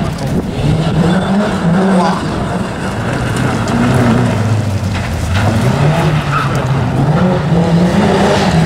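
Rally car engine revving hard and easing off again and again as the car is driven through tight turns, its pitch rising and falling with the throttle.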